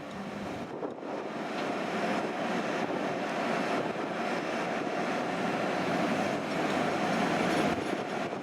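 An electric locomotive-hauled train running by: a steady rush of wheel and motor noise that builds gradually, with a constant humming tone through it.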